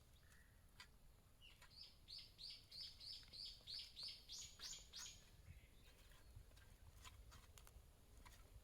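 A small songbird singing faintly: a quick run of about ten repeated high notes, the last few pitched higher, lasting a few seconds. Scattered faint clicks come before and after it.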